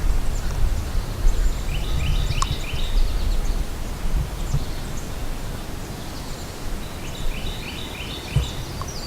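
Songbirds singing in woodland: one bird repeats a short song of four quick notes twice, with scattered higher chirps from others, over a steady low rumble.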